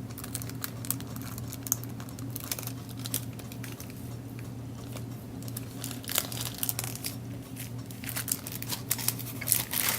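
Cellophane bags and paper crinkling and rustling as they are handled, in scattered short crackles, over a steady low hum.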